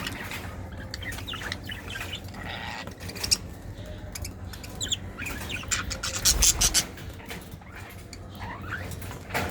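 Lovebirds chirping in short, scattered calls, mixed with small clicks, and a brief flurry of louder scuffling noise about two-thirds of the way through.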